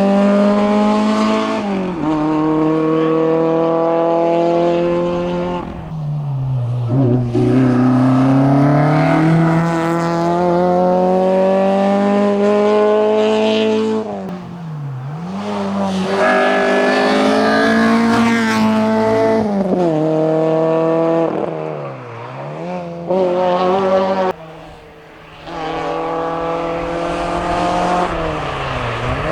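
Citroën Saxo rally car's engine at full throttle, revving up through the gears with the pitch falling at each shift and dipping where it lifts off and picks up again. Near the end it gives way to an Opel Corsa GSi accelerating hard.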